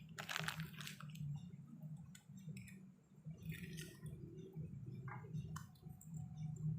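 Scattered small clicks, scrapes and rustles of handling work, the loudest a short scrape just after the start and another about halfway through, over a steady low hum.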